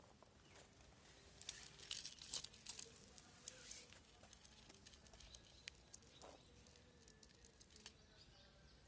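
Faint scattered clicks and light rustling over a quiet background, clustered in the first few seconds and thinning out after.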